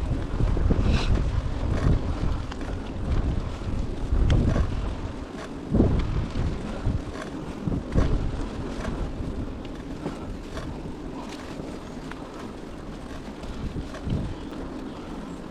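Wind buffeting the microphone while cycling along a trail: a low rumble that is heaviest in the first half and then eases, with a few short knocks.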